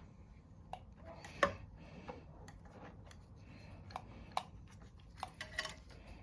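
Irregular light clicks and taps of small metal parts and tools being handled while refitting a carburetor's throttle linkage, the loudest about a second and a half in and a cluster of them near the end.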